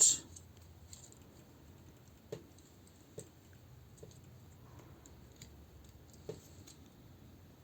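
Plastic parts of a transforming robot toy figure being handled and folded: a sharp click at the start, then faint scattered clicks and taps, one every second or so.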